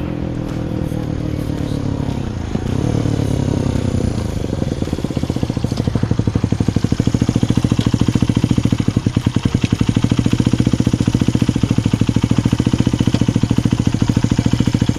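Honda Ape's single-cylinder four-stroke engine, bored up to 82 cc with a Kitaco kit, its revs falling away, with a short blip about two and a half seconds in, then settling into a steady, pulsing idle from about a third of the way through.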